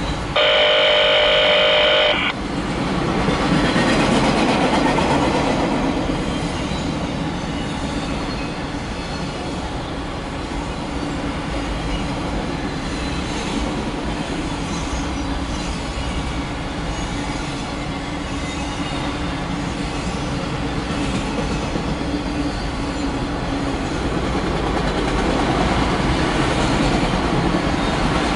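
Empty autorack freight cars rolling past with a steady rumble and rattle of wheels on rail. A loud, steady horn blast of about two seconds comes near the start.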